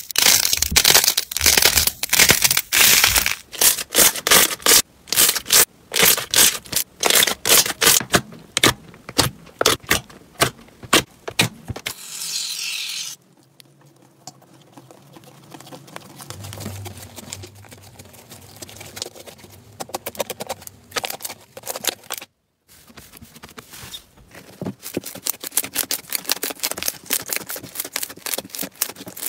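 Crunchy slime being squeezed and pressed, crackling with rapid dense pops. Midway there is a brief hiss, then a quieter stretch of soft squishing. The sound breaks off just after 22 seconds, and the fast crackling comes back.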